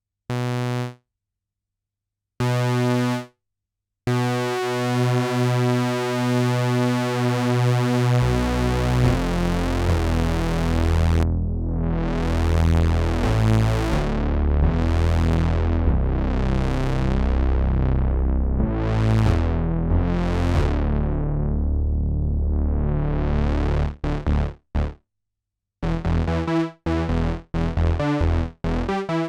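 Sequential Trigon 6 analog polysynth played dry. Two short notes come first, then a held note. Next a repeating bass-heavy pattern plays while the tone brightens and darkens several times as the filter sweeps open and shut. It ends in short staccato notes.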